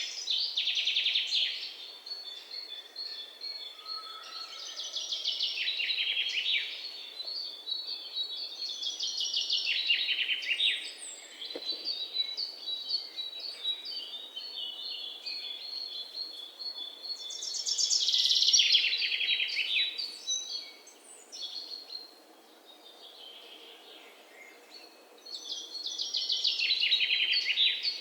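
African grey parrot calling: high chirps and buzzy trills that fall in pitch, in bursts every few seconds, with runs of short even-pitched notes between them.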